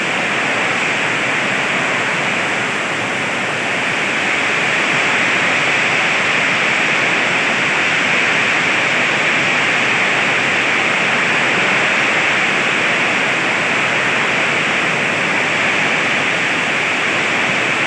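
Heavy rain pouring down in strong wind: a loud, steady hiss of falling water that swells slightly about four seconds in.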